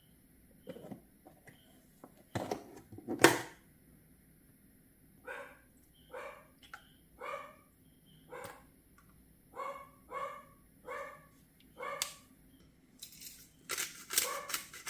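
A dog barking repeatedly, about once a second, after two sharp knocks. A rapid clatter of taps starts near the end.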